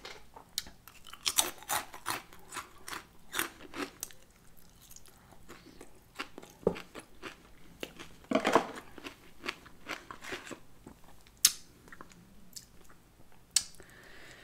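Close-miked chewing of crunchy food, Flaming Hot Cheetos with spicy ramen noodles: irregular crisp crunches, busiest in the first few seconds and again about eight seconds in.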